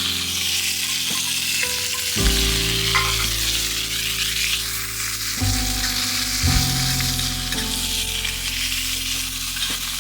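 Food sizzling steadily as it fries, over background music of sustained chords that change every second or two.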